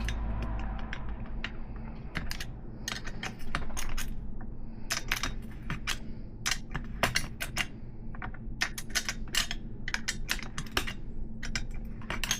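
Quick, irregular metal clicks and clinks, several a second in short clusters, as BMX axle hardware (axle, nuts and adapters) is worked loose.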